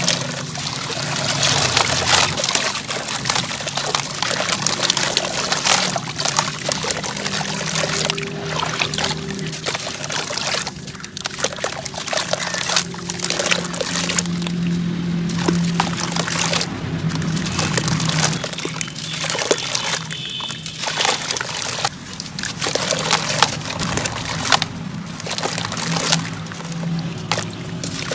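Sand and cement chunks crumbling and pouring, a dense continuous crackle of many small grains with brief lulls, over a low steady tone.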